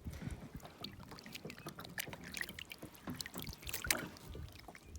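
Faint water trickling and dripping around a kayak, with scattered light clicks and knocks from handling.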